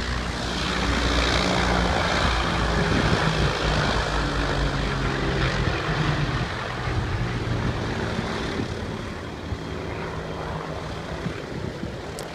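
Piston-engined propeller aircraft passing overhead, a deep engine drone that swells over the first few seconds and then slowly fades.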